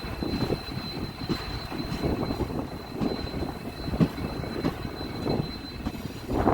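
Train in motion: a steady low rumble of wheels on the track with irregular knocks, over a thin, steady high-pitched whine.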